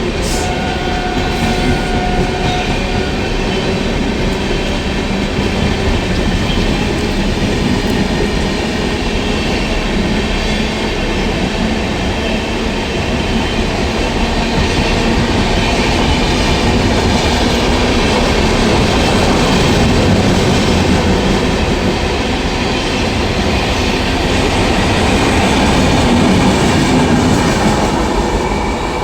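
Express passenger train running on the rails: a loud, steady rumble and clatter of wheels on track, swelling a little and easing toward the end.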